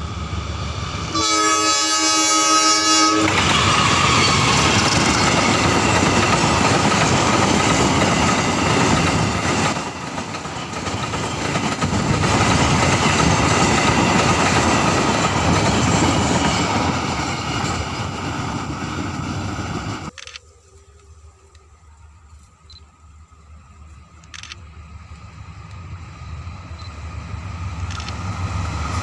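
Diesel locomotive horn sounds one long blast about a second in, followed by a passing train's engine and wheels on the rails. The train noise drops off suddenly about two-thirds through, then builds again near the end.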